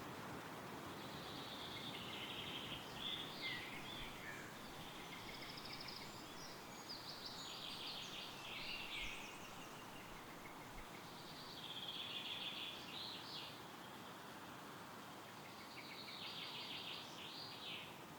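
Wind rustling through forest trees as a steady hiss, with a songbird singing four short trilled phrases, one every four to five seconds.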